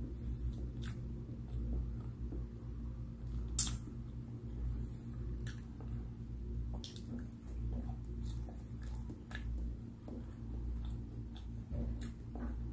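Close-miked chewing and mouth sounds of a person eating, with scattered sharp wet clicks, the loudest about three and a half seconds in, over a steady low hum.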